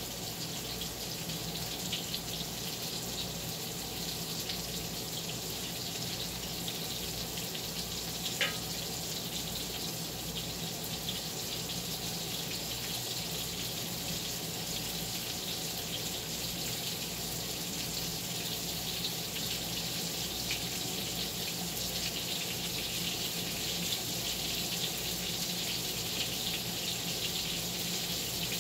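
Egg-battered veal cutlets frying in a skillet on a gas stove, a steady sizzle, with one short tick about eight seconds in.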